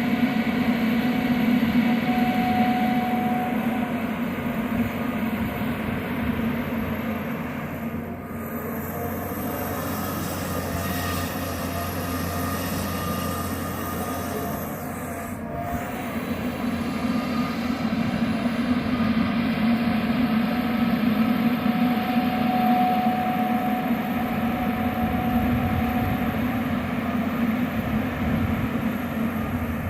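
John Deere 350G LC hydraulic excavator's diesel engine and hydraulics running steadily under working load, with a faint whine coming and going. The engine eases off a little about a third of the way in, then loads up again.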